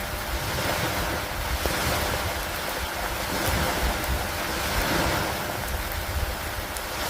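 Steady rain and wind noise that swells and eases every couple of seconds, over a constant low rumble.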